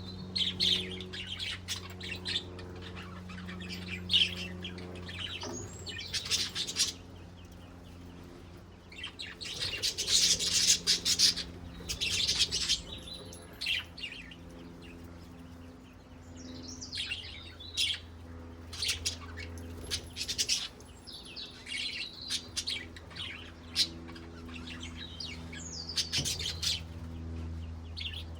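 Pet budgerigars warbling and chirping in irregular bursts of quick high notes, over a steady low hum.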